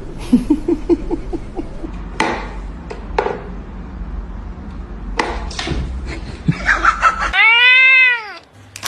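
A person laughs in short bursts, then a few sharp knocks follow. Near the end a loud, drawn-out cry rises and falls in pitch.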